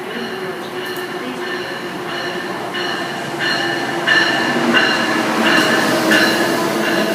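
Train moving through the station, getting louder partway through, with high metallic tones that come and go about every half second over the rumble.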